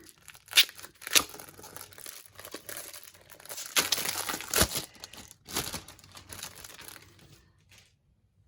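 Paper wrapping of a small parcel being unwrapped by hand, crinkling and rustling in irregular bursts that die away about seven and a half seconds in.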